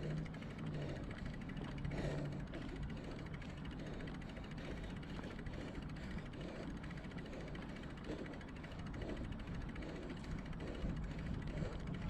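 Steady wind and road rumble from a bicycle being ridden, with a low hum in the first two seconds.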